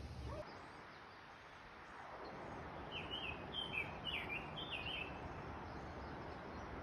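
A small bird calls a quick string of about five short chirps between about three and five seconds in, over a steady outdoor hiss that swells in around two seconds in.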